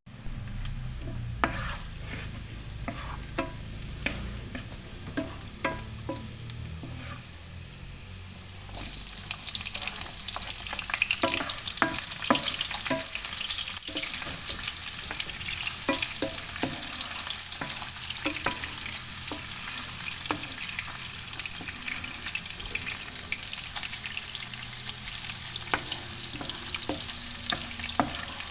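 Chicken feet frying in a pan, with sharp clicks and knocks scattered throughout. For the first few seconds there is mostly a low hum under the clicks; about nine seconds in a loud, steady sizzle starts and keeps on.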